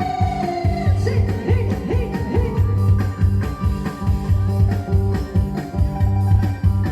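Thai electone band music: an electronic keyboard playing a melody over a steady, even bass beat, with a long, bending sung note that ends about a second in.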